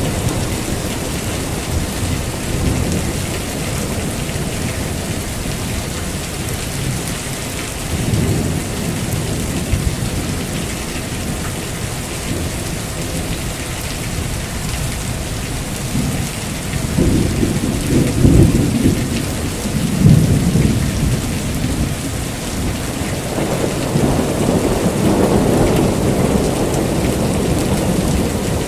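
Heavy rain falling steadily, with thunder rumbling through it; the thunder swells to its loudest a little past the middle, then rolls on more softly to the end.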